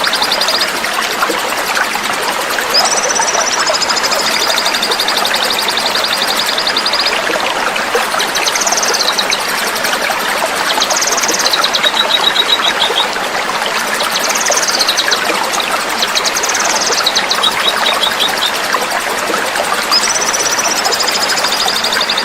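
A small songbird's recorded training song, repeated in phrases: each starts with a quick downward-sweeping note and runs into a fast, dense rattling trill. Underneath is the steady rush of flowing water.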